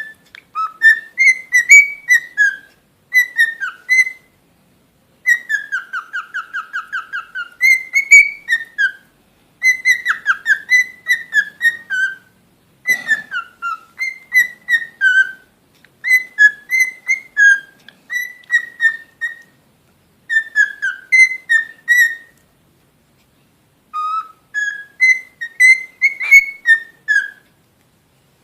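Pet cockatiel whistling a tune in short repeated phrases of rising and falling notes, with a fast warbling trill about six seconds in and brief pauses between phrases.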